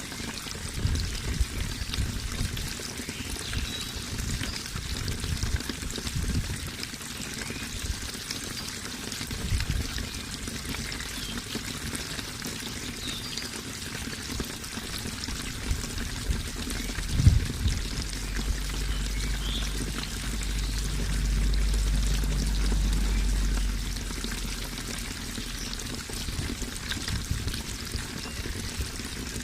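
Running water, steadily pouring and trickling, with irregular low thumps under it. A deep low rumble swells in for several seconds past the middle, then drops away.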